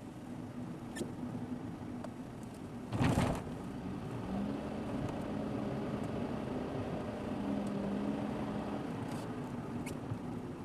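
Car driving, heard through a dashboard camera inside the car: a steady engine hum with tyre and road noise. About three seconds in comes a single short, loud thump, with a few faint ticks elsewhere.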